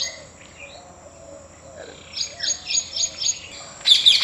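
Birdsong: a bird gives a quick run of about six high chirps a little past halfway. Near the end a dense chorus of many birds starts up and is the loudest part.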